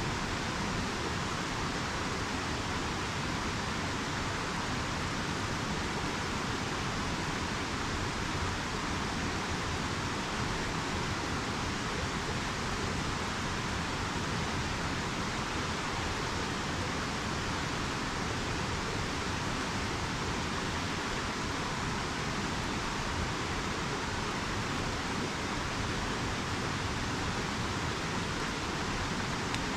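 Steady rushing of a river's flowing water, an even unbroken hiss.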